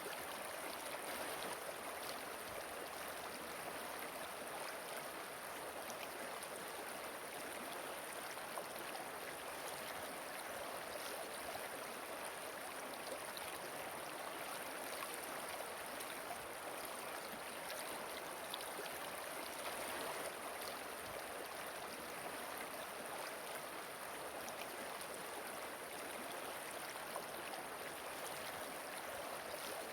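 Running water of a river or waterfall: a steady, even rush with faint small splashes and trickles through it.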